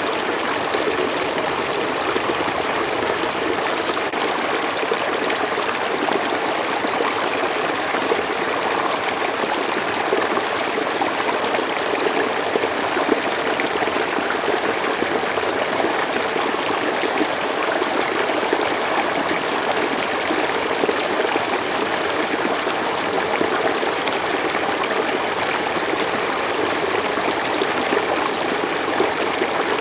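River water flowing and splashing steadily over stones, an even rushing without let-up.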